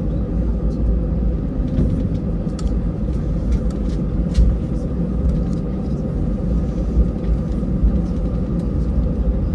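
Airbus A320 airliner heard from inside the cabin: a steady rumble of engines and airframe with a constant drone, and scattered light rattles and ticks.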